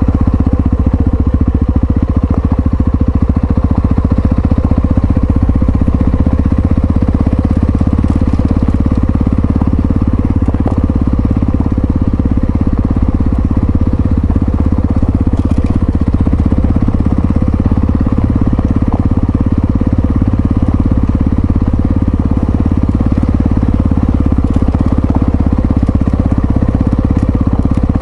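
Yamaha XT660Z Ténéré's single-cylinder engine running steadily at an even pitch, with a dense, even pulsing.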